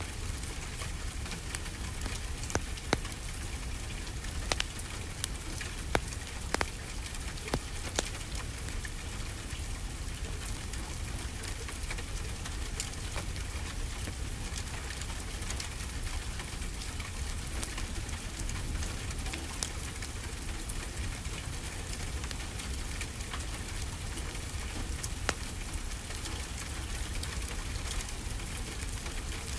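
Steady rainfall with a wood fire crackling, its sharp pops clustered in the first eight seconds or so, with one more near the end.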